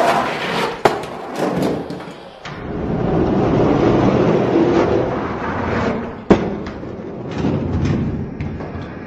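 Die-cast toy monster trucks rolling down a racing track: a steady rumble of wheels on the track, broken by sharp clacks and knocks, the loudest about six seconds in.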